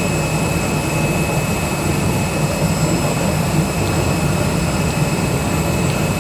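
CNC cutting machine running a test cut: a steady high motor whine with overtones above it, over a low hum and a rough mechanical noise.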